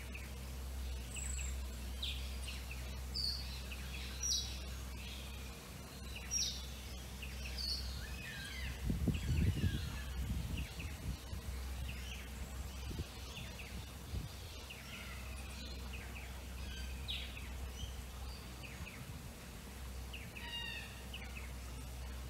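Small birds giving short, scattered chirps and tweets at varied pitches over a steady low background hum. A brief low rumble comes around nine to ten seconds in.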